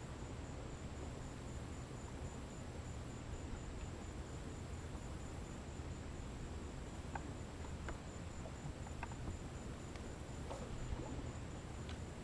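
A faint, steady, high-pitched insect trill pulsing evenly over a low background hum, with a few faint clicks about two-thirds of the way through.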